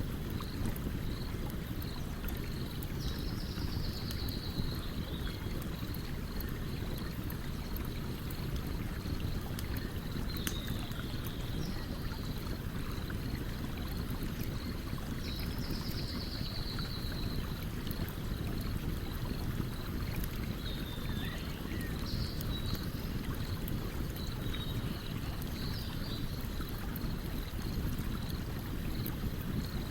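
Stream water running steadily under the sharp little crackles of a campfire. A small bird calls several times, including two short buzzy trills, one a few seconds in and one around the middle.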